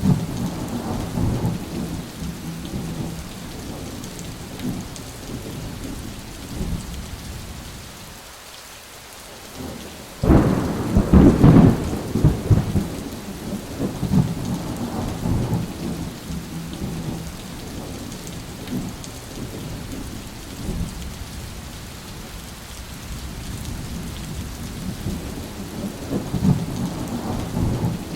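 Rainstorm: steady rain with rolling thunder rumbling low. After a brief lull, a loud thunderclap breaks suddenly about ten seconds in and rumbles on for several seconds, with another roll of thunder building near the end.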